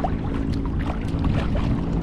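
Kayak paddling on a lake: water splashing and dripping in small irregular ticks from the paddle, over a steady low hum.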